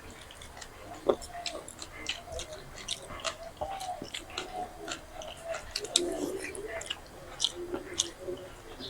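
People eating: chewing and crunching with many short, irregular clicks, the sound of fried snacks such as chanachur and besan fritters eaten with fermented rice.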